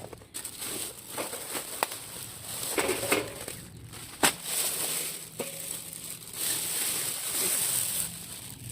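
Dry crunching and crackling with several sharp snaps, as of dry twigs and leaves being crushed and broken.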